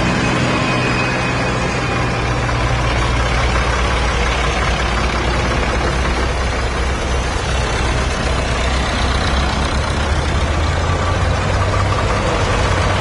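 Tractor engines running with a steady low drone. It eases after the first second or so and grows stronger again about halfway through, as a nearer engine comes up.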